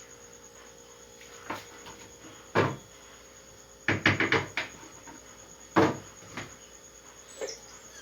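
Kitchen clatter of pans and utensils being handled: separate sharp knocks, with a quick run of clatters about four seconds in. Near the end, short high whining sounds begin.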